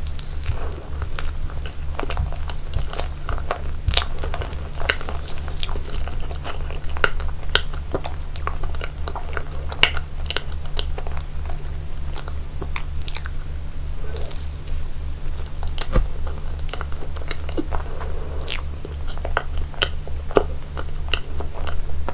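Close-miked eating of cake: crunchy bites and chewing with many sharp, irregular mouth clicks and crackles, over a steady low hum.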